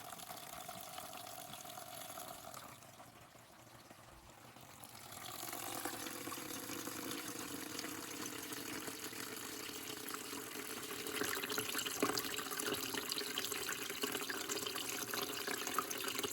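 Water from a Tetra EX 800 Plus canister filter's outflow streaming steadily into a bucket as it fills, at about 380 litres per hour. It dips quieter a few seconds in, then grows louder again.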